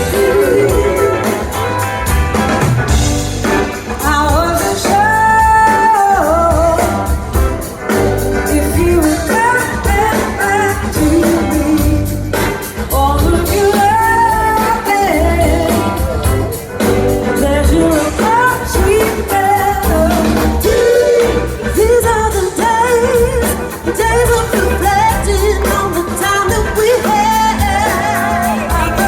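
Live rock band playing a song, a lead vocal with wavering held notes over a steady heavy bass and drum beat.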